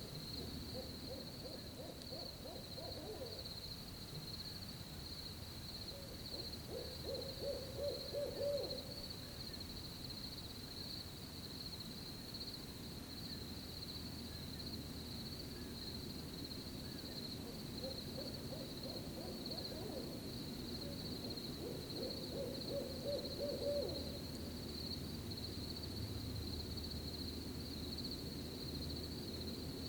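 An owl hooting in low, wavering phrases, four times in two pairs, the second of each pair a little louder, over a steady high-pitched cricket chorus.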